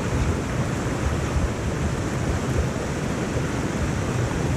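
Waterfall's falling water rushing steadily into its plunge pool.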